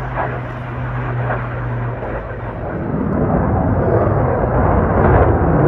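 Aircraft flying overhead: a steady low drone fades, then a broad rushing engine noise swells louder over the last few seconds as it passes.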